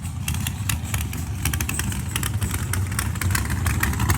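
Methanol-fuelled turbocharged mega truck's engine idling: a deep, steady engine note with rapid, irregular crackling over it, growing slightly louder near the end.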